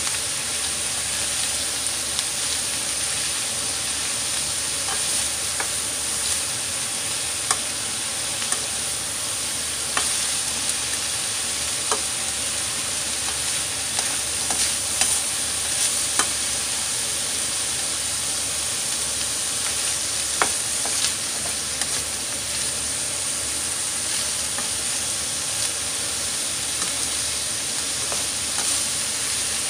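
Sliced cucumber sautéing in a hot frying pan with ground beef and onion: a steady sizzle, while a spatula stirs the strips and now and then taps or scrapes the pan with a short sharp click.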